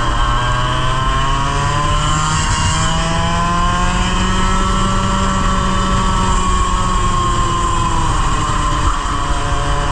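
100cc racing kart engine heard onboard, pulling up through the revs slowly for about five seconds, holding, then dropping off around eight seconds in as the kart slows for a corner. The driver says that from mid-race the kart's engine bogged in corners and had no power until midway down the straight.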